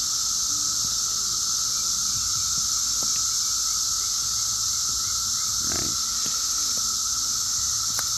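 Dense chorus of 17-year periodical cicadas, a steady shrill drone that holds without a break.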